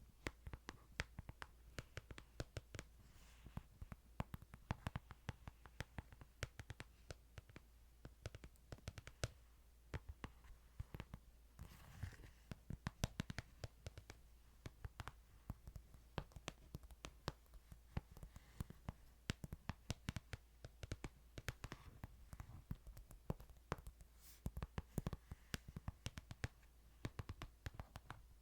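Fingernails tapping and scratching on a Bible close to the microphone: many quick, irregular light taps with soft scratches, over a faint low hum.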